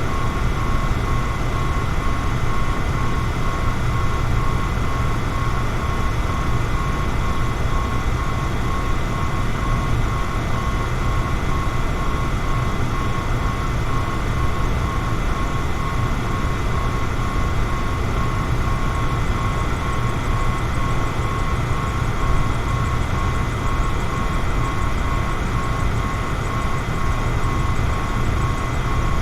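Electric fan running steadily: a constant rush of air, heaviest in the low end, with a steady high motor whine over it.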